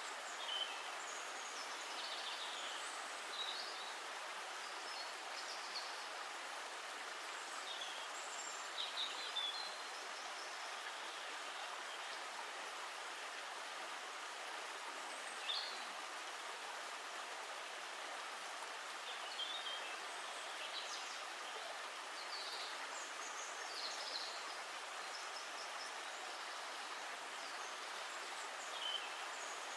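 Water flowing steadily in a stream, a continuous rushing. Small birds chirp briefly now and then above it.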